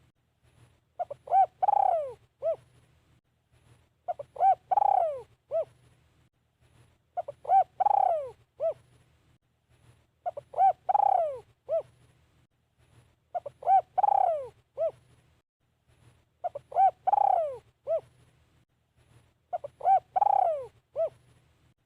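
Spotted dove cooing, a caged decoy calling to lure wild doves. It repeats the same phrase about every three seconds, short coos around one longer note that falls in pitch, over a faint low hum.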